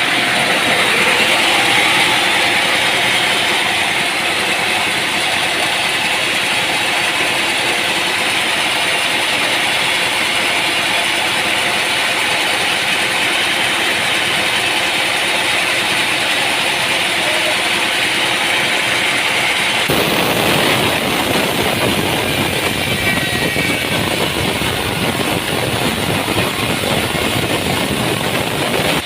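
Sawmill machinery running with a loud, steady mechanical noise. About two-thirds of the way through it changes abruptly to a rougher, heavier sound.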